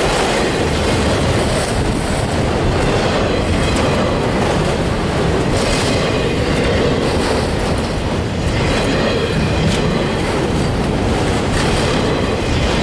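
A train rolling past at close range: a steady loud rumble of wheels on the rails, with scattered clicks over the rail joints.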